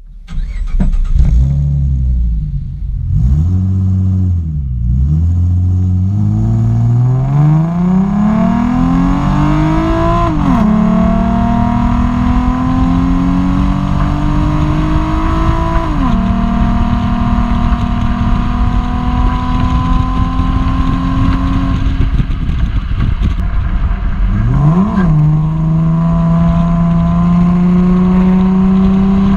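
2014 Ford Mustang engine breathing through an aftermarket MBRP exhaust. It is revved up and down a couple of times, then accelerates with the pitch climbing, dropping sharply at two upshifts about a third of the way in and about halfway. After that it holds a steady drone, eases off, gives one quick rev blip and settles into a steady cruise again.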